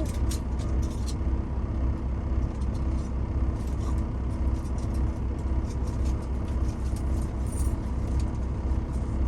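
A semi truck's diesel engine running, a steady low rumble heard from inside the cab, with a faint steady hum and scattered light clicks and taps from handling things.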